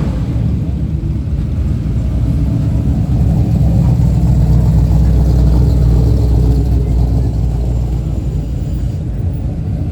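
Pickup truck's engine running with a deep exhaust rumble that swells for a few seconds around the middle and then eases off.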